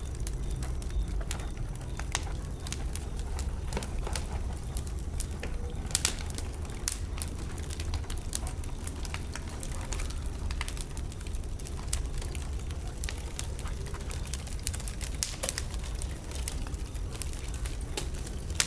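Wood bonfire burning, with irregular sharp crackles and pops from the burning wood over a steady low rumble.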